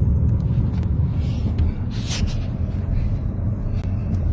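Hailstorm: a steady low roar with scattered sharp knocks of hailstones striking, the hardest about two seconds in.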